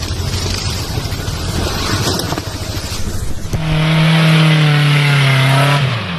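An off-road vehicle's engine running rough and noisy, then about three and a half seconds in it revs high and holds there, its pitch sagging slowly before it drops off near the end.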